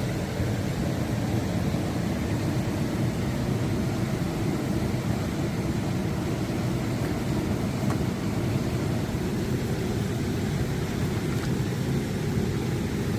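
Absima Sherpa RC scale pickup truck driving offroad: a steady noise from its motor and drivetrain, strongest low down.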